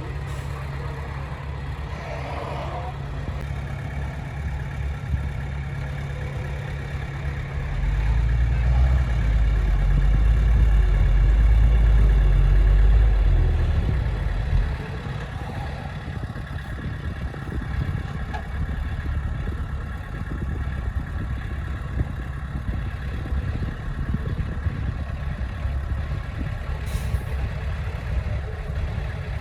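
Diesel engine of a heavy earthmoving machine running steadily. It grows louder for about six seconds in the middle, then drops back.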